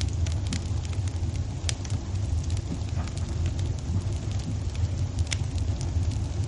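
Wood fire in a fireplace crackling: scattered sharp pops and snaps at irregular intervals over a steady low rumble.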